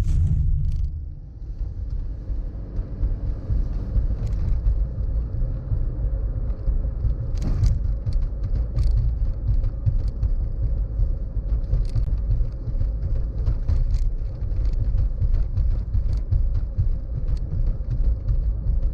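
Car driving on the road: a steady low rumble of engine and road noise, dipping briefly about a second in, with scattered light ticks and clicks.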